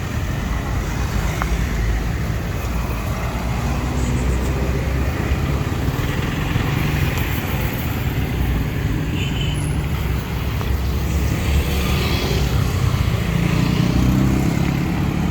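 Steady low rumble of a motor vehicle running, with road noise, and no distinct events.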